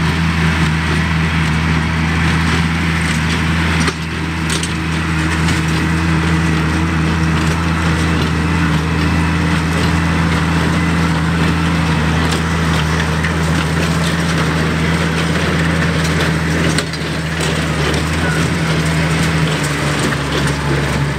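Oliver 770 tractor engine running steadily under load while driving a New Holland 276 Hayliner small square baler, with the baler's crunching and rattling of hay mixed in. The sound shifts abruptly about four and seventeen seconds in.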